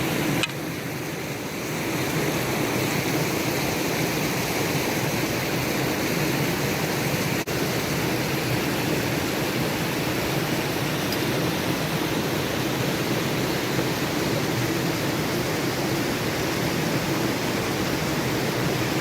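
Stream water rushing steadily over rocks, heard close by.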